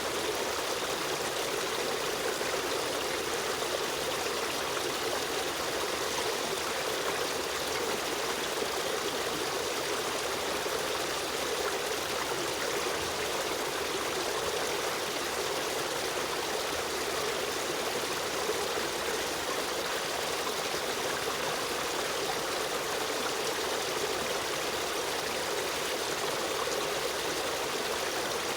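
Stream of running water flowing steadily, a continuous even rush with a light trickle.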